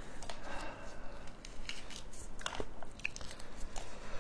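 Close-miked eating sounds: chewing and biting with scattered small crunches and wet mouth clicks.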